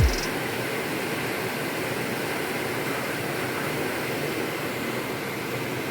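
Steady hiss of rain falling. A deep falling boom dies away right at the start.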